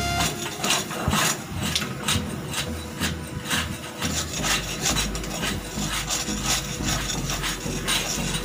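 Hand scraper rasping against a ship's hull in repeated short strokes, about two to three a second, as oyster and marine growth are scraped off.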